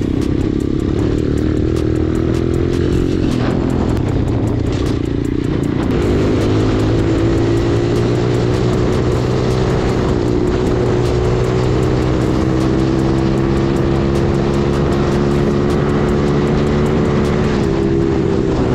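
Minirocket Superpit 125 pitbike's single-cylinder four-stroke engine running under way. The engine note dips about three and a half seconds in, steps up to a higher steady note about six seconds in, and dips briefly again near the end.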